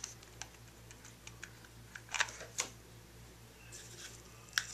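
Light clicks and taps from hands handling and pressing down small paper-craft pieces on a work surface, with two sharper clicks about two seconds in and another near the end.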